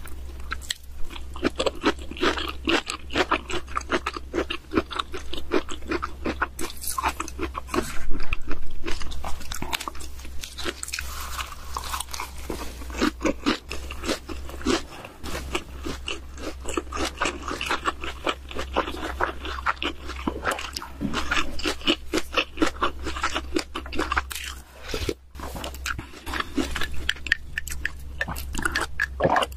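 A person biting and chewing crunchy food in a steady stream of rapid crunches, loudest about eight seconds in.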